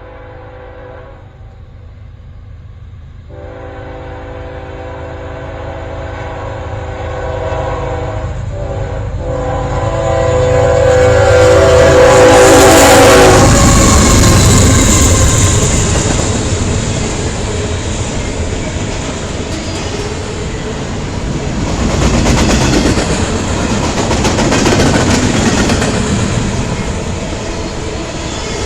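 Norfolk Southern freight train approaching with its locomotive horn blowing in several blasts, growing louder until the horn stops as the engine passes about 13 seconds in. Then comes the rumble and clickety-clack of the freight cars rolling by.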